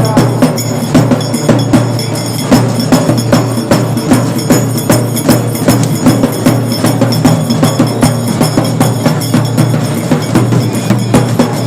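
Loud percussion-driven music with dense, sharp drum strikes.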